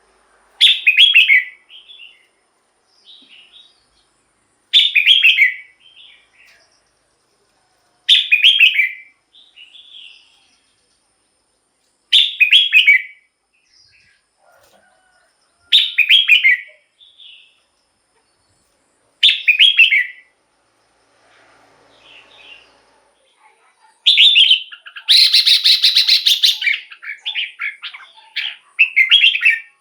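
Red-whiskered bulbul singing: short bright song phrases repeated about every four seconds, then a longer, busier run of song near the end.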